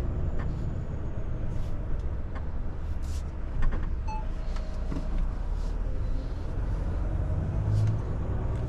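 Volvo FH truck's engine and drivetrain running, heard inside the cab as a steady low rumble with road noise. A few faint clicks sound along the way.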